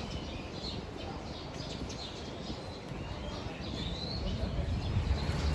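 Many small caged birds chirping and tweeting with short, high calls, over a steady low background noise.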